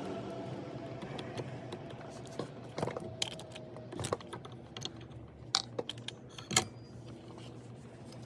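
Hand tools and small metal parts clinking and clicking while a scooter's clutch is worked on: irregular taps and clinks, a cluster of them about three seconds in and the sharpest a little past six seconds, over a faint steady hum.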